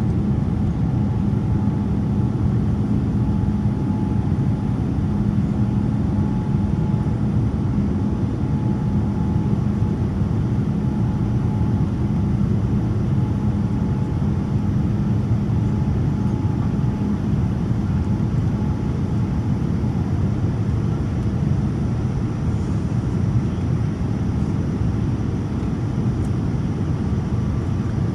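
Boeing 787-9 with Rolls-Royce Trent 1000 engines, heard inside the cabin: a steady, dense rumble of engine and airflow noise. A humming tone fades away about two-thirds of the way through.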